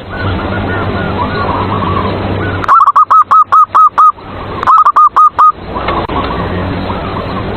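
Zebra dove (perkutut) cooing in quick runs of short repeated notes, two phrases about three and five seconds in, over a steady low hum.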